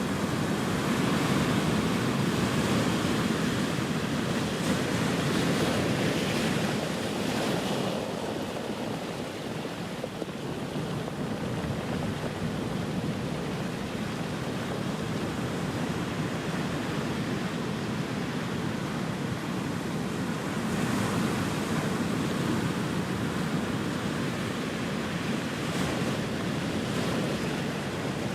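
Ocean surf: a continuous wash of waves breaking and running up the shore, swelling louder in the first several seconds, easing off, then swelling again twice near the end.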